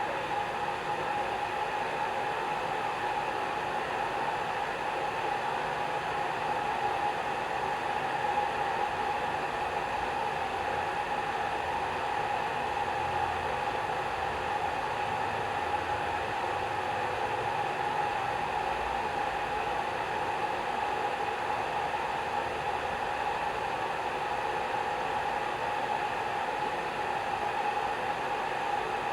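Hair dryer running steadily: an even rush of blown air with a steady mid-pitched whine and no change in speed.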